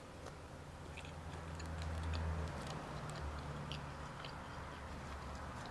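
A person chewing food close to the microphone, with small scattered mouth clicks over a low steady hum.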